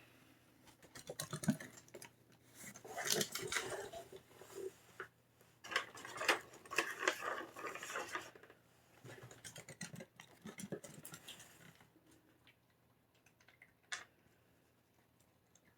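Runs of quick clicking and clattering, like small hard things knocking against a dish, in a small room, with a single sharp click near the end.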